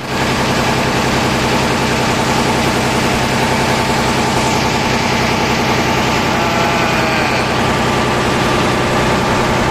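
Ferry boat's engine running steadily, a deep, even hum.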